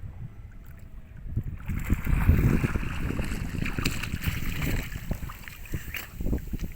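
Fishing boat under way: a steady low noise of the boat moving through the water, louder from about two seconds in.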